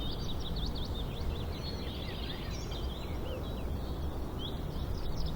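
Small songbirds chirping and trilling in quick, overlapping bursts, over a steady low background rumble.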